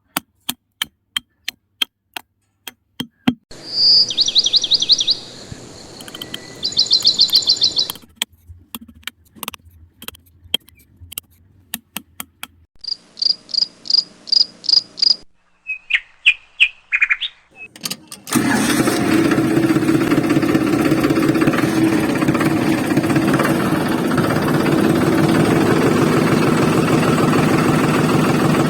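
A series of sharp clicks and short high chirping trills, then, about two-thirds in, an engine starts idling steadily with a fast, even knock, like a small diesel tractor.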